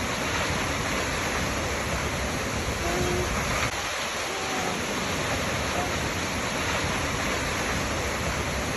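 Waterfall rushing: a steady, unbroken noise of falling water with no change in level, and a few faint short tones now and then.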